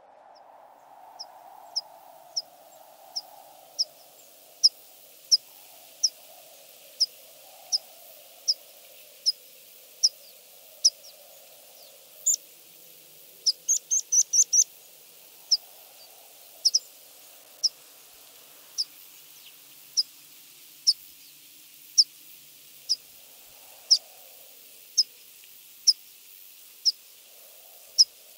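A small bird repeating a single short, high chirp every second or so, with a quick run of chirps about halfway through, over a faint low wavering hum.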